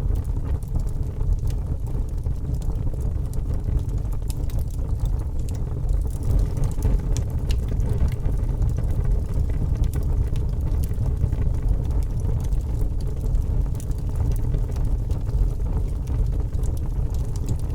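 Wood fire burning in a fireplace: logs crackling with frequent small irregular pops, over a steady low rumble of flames.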